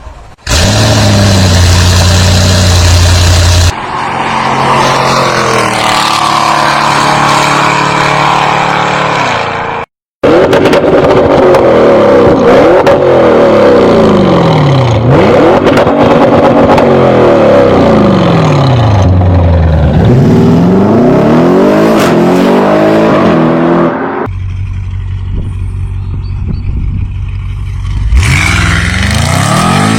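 Audi RS6 engine revving and accelerating in several short clips cut one after another, its pitch climbing and dropping again and again.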